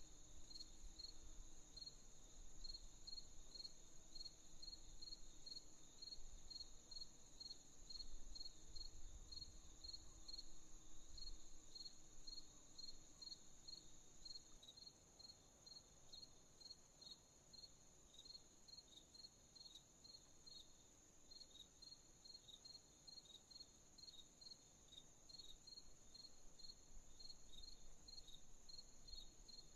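Faint chorus of crickets: a steady high trill under a regular chirp that repeats about twice a second.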